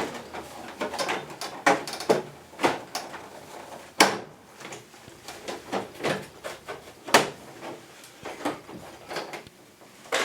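Irregular clicks and knocks of hard plastic air-conditioner parts being handled, with two sharper snaps about 4 and 7 seconds in.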